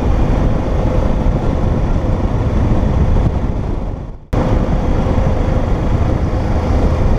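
Wind rushing over the microphone with the motorcycle's engine humming steadily underneath, recorded on a moving motorcycle at road speed. A little past halfway the sound fades away for a moment, then cuts back in suddenly.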